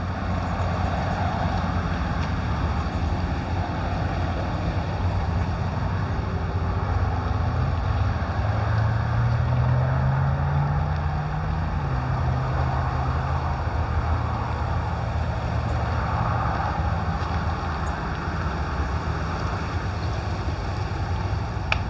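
Steady low engine rumble, its hum rising in pitch about eight seconds in and easing back a few seconds later, with a haze of wind over it.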